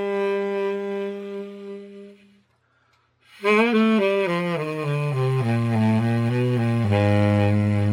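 Tenor saxophone playing: a held note that fades away, a pause of under a second, then a phrase of notes stepping downward to a held low note.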